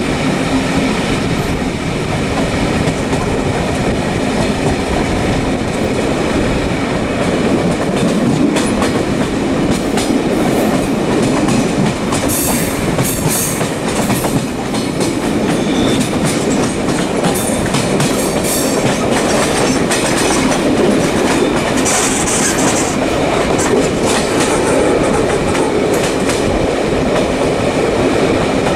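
Steady running noise of a moving train, with scattered clicks and brief high hissing.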